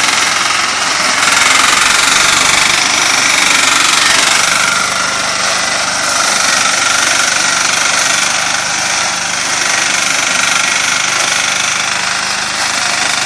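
Engine-driven corn harvesting machine running loudly and steadily, a dense mechanical clatter with engine noise underneath.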